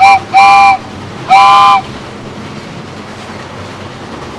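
Cartoon train horn sounding three toots: a very short one, then two longer ones, each a chord of several tones. A steady noise follows.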